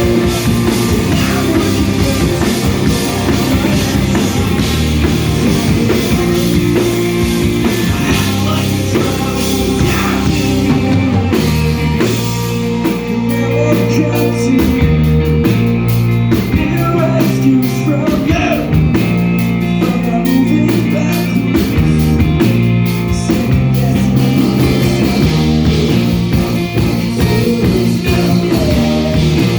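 Live rock band playing loud, with drum kit and singing. About twelve seconds in the music shifts to a sparser passage with much less cymbal, which lasts until near the end.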